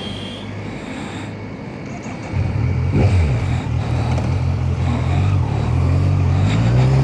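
Kawasaki Z900 inline-four motorcycle engine running, getting louder about two and a half seconds in, its pitch rising near the end.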